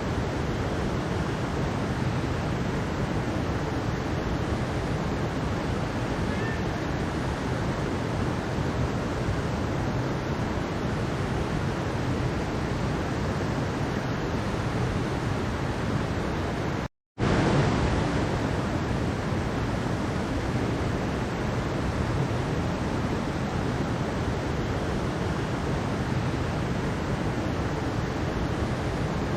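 Mountain stream water rushing steadily over rocks. About seventeen seconds in it cuts out to silence for a moment, then resumes.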